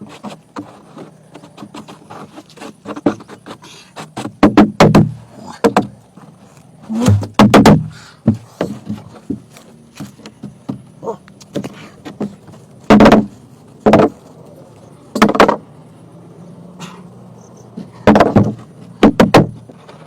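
Irregular heavy knocks of wood being struck, often in quick pairs or threes, with quieter rubbing and scraping between them.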